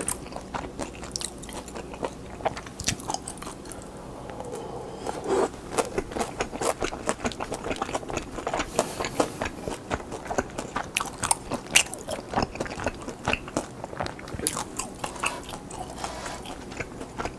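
Close-miked biting and chewing of a pan-fried stuffed dumpling (hotteok mandu) with a browned, crisp-fried base: crunchy bites and a steady run of short, sharp clicking mouth sounds.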